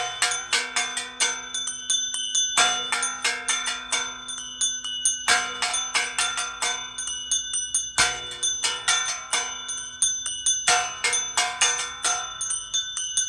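Salta Cathedral's tower bells rung in a fast, many-bell peal: bells of several pitches struck in quick succession, each ringing on. The pattern restarts with a heavy stroke about every two and a half to three seconds.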